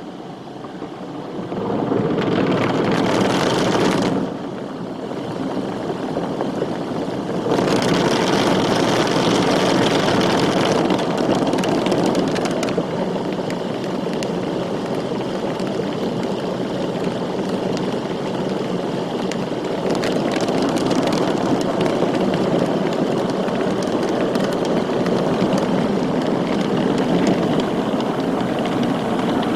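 Automatic car wash running, a rushing hiss of water spray and machinery. It swells a second or two in, dips briefly, then swells again and stays steady.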